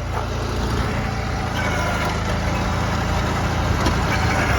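Honda 5518 garden tractor's Honda overhead-cam gas engine running steadily.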